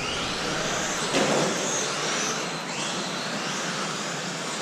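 Several 1/10-scale radio-controlled electric touring trucks racing, their brushless motors whining and rising in pitch as they accelerate out of corners, a fresh rising whine every second or two, over a steady hiss. A short knock about a second in.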